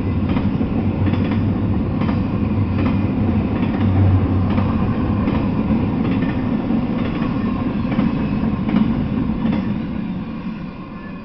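Double-stack intermodal freight train rolling past on well cars: a steady rumble of steel wheels on rail with clicks about every three-quarters of a second as the wheels cross rail joints, fading near the end as the tail of the train goes by.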